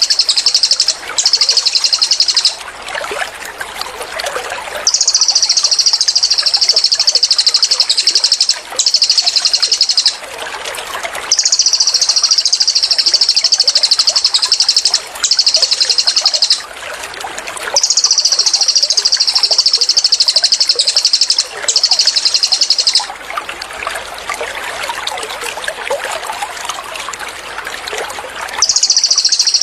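Cililin bird singing its 'tembakan' song: long, high, rapid trills repeated about nine times with short pauses between, over a background of trickling water.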